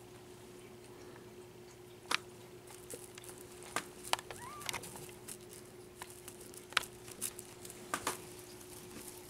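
Scattered light taps and clicks, several sharp ones, from a kitten pawing and batting at a toy. They start about two seconds in, over a faint steady hum.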